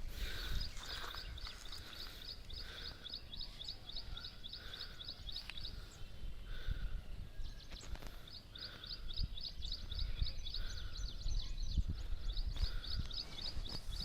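Birds calling: long runs of fast, high chirps, about five or six a second, that stop and start again twice, with a lower note repeating about once a second.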